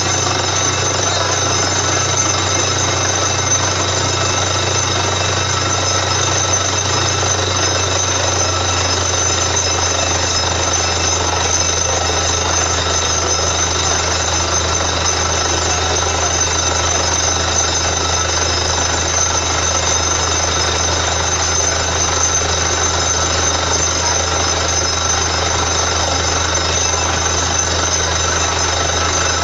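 Borewell drilling rig running steadily: a continuous loud hammering rattle over a low engine drone. The low drone shifts slightly about ten seconds in.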